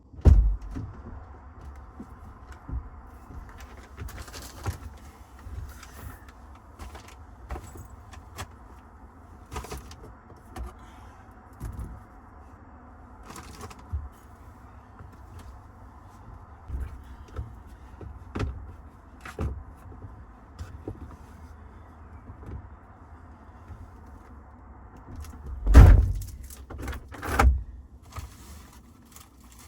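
Truck running with a steady low hum, with scattered short knocks and clunks throughout and two louder thumps near the end.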